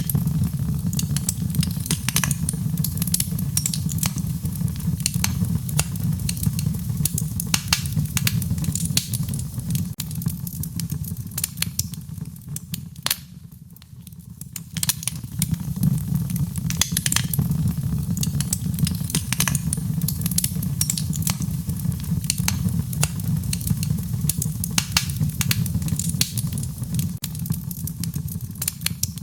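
Wood fire crackling with frequent sharp pops and snaps over a steady low rumble of the flames, briefly quieter about halfway through.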